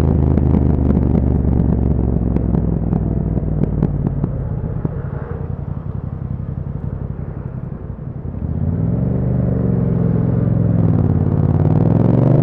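Yamaha MT-07's parallel-twin engine through an Akrapovic exhaust, easing off with light crackles as the bike slows over the first several seconds. It then picks up revs, dips once, and revs up steadily as the bike accelerates near the end.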